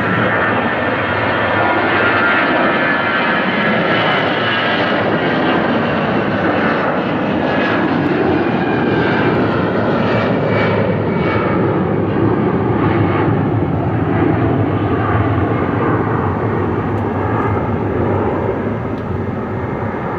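Airbus A320's twin jet engines at takeoff thrust as the airliner departs: a loud, steady rumble with a high whine over it.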